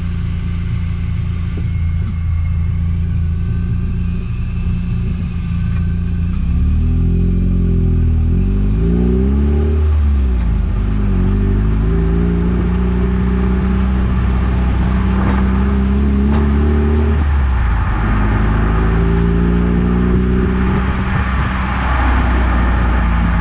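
Eunos Roadster driving, its engine note rising and falling as it revs and shifts. About fifteen seconds in come two sharp thuds ('dan-dan'), which the owner suspects is the suspension knocking as it reaches full extension.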